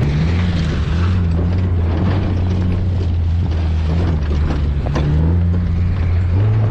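Vehicle engine running under throttle, its low drone steady with the pitch wavering up and down as it drives, with a few light knocks along the way.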